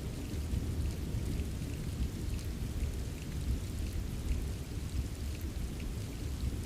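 Rain falling steadily, with a continuous deep rumble underneath and scattered light drip ticks.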